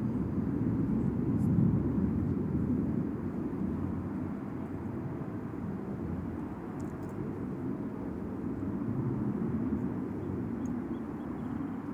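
Jet engine rumble from the Blue Angels' F/A-18 Super Hornets flying overhead, loudest about two seconds in and then easing to a steady, lower level.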